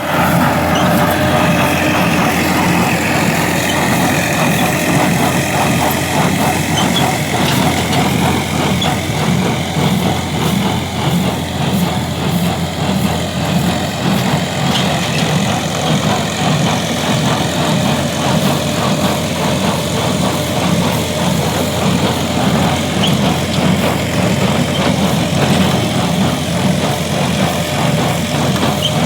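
Tractor engine running steadily under load while a square baler works, a continuous mechanical drone with a fine regular pulsing.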